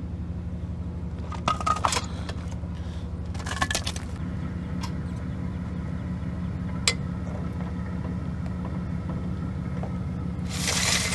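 Metal tools and parts clinking and scraping over a steady low mechanical hum, with a loud burst of hissing noise near the end.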